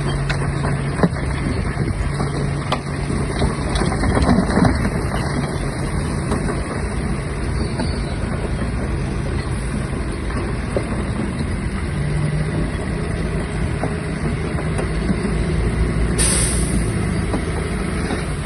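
Shantui DH17-C3 bulldozer's diesel engine running steadily while it works, with scattered metallic clanks. A sharp hiss starts about sixteen seconds in.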